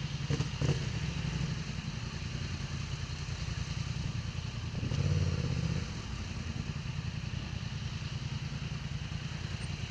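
Motorcycle engine running steadily under way, swelling louder for about a second around five seconds in, with a few light clicks near the start.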